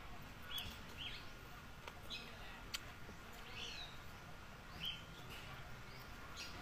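Faint bird chirps: short calls, several falling in pitch, scattered about once a second. A couple of light clicks near the middle.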